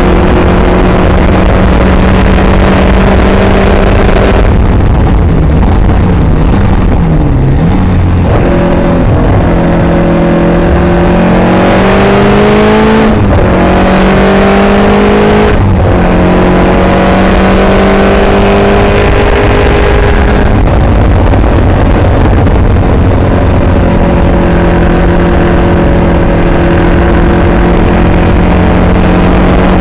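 Caterham Superlight's four-cylinder engine heard on board at track speed. It holds steady revs, eases off around five seconds in with a quick dip and blip of revs near seven seconds, then pulls hard with rising revs and sharp upshifts near thirteen and sixteen seconds in before settling to steady revs again.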